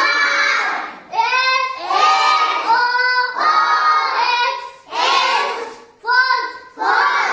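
Young children singing or chanting together in a sing-song voice, in phrases of a second or two with short breaks between them.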